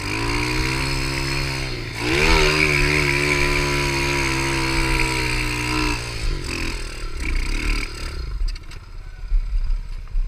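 Pit bike engine revving hard under throttle. It holds a high steady pitch, dips briefly about two seconds in, as at a gear change, and climbs higher again. Around six seconds in the throttle closes and the engine falls away, leaving light clattering.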